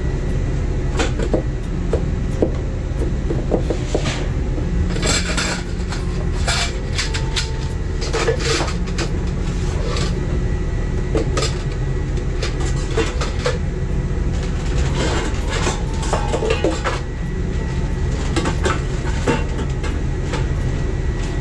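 Repeated knocks, clicks and clatter of kitchen items and cupboard doors being handled, over a steady low rumble.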